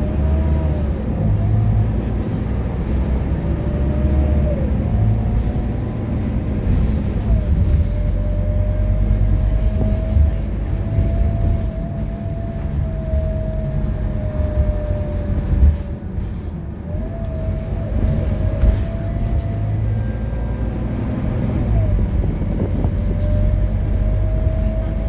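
A Scania K230UB city bus's diesel engine and drivetrain under way, heard from on board. The engine rumbles and a whine climbs slowly, dropping back several times as the automatic gearbox shifts up.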